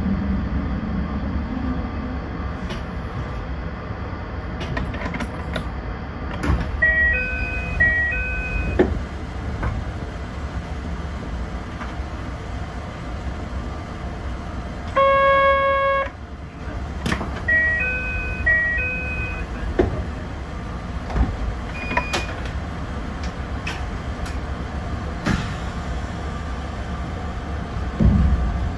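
A 762 mm narrow-gauge train stands at a station with a steady low hum from the cab. Two short electronic chimes of a few stepped notes sound about ten seconds apart, with a buzzer of about a second between them and a few sharp clicks scattered through.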